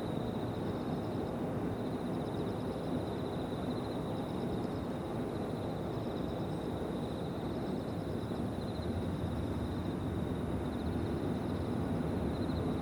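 Insects singing in several overlapping high-pitched pulsing trills, steady throughout. Beneath them runs a steady low rumble of background noise.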